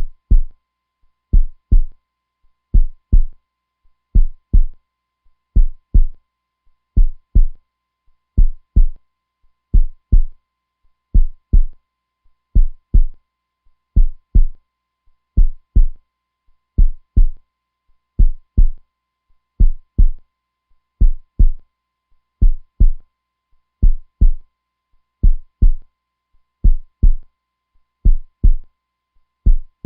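Heartbeat sound: a strong, steady double beat (lub-dub) repeating about every one and a half seconds, each pair two low thumps close together.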